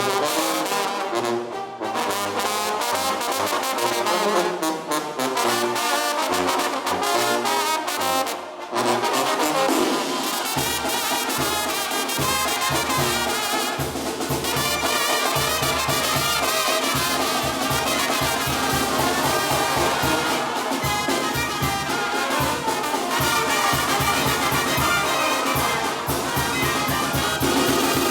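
Banda brass band playing live without singing: trumpets and trombones carry the melody, and a steady low beat comes in about ten seconds in.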